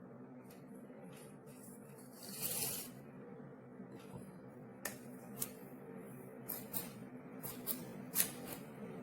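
Quiet handling sounds over a low steady hum: a brief rustle about two and a half seconds in, then several light, sharp clicks and taps spaced irregularly through the second half.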